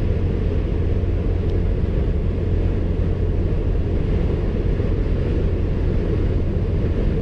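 Steady low rumble heard from inside the cab of a four-cylinder Toyota pickup on the highway, the engine held at high revs, mixed with tyre noise and a strong wind against the truck.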